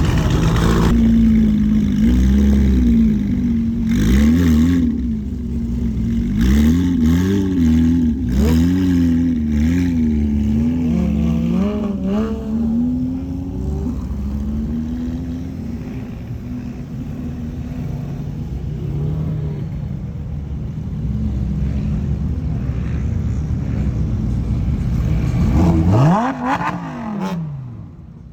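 Car engine revving up and down repeatedly, its pitch rising and falling about once a second for a stretch. Near the end there is one quicker rev up and back down before the sound drops away.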